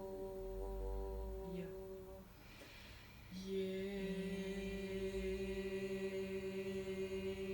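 A long sung vowel held on one steady pitch, as in a vowel-sound breathing exercise. It breaks off a little over two seconds in, with a short pause for breath, then starts again about a second later and holds steady.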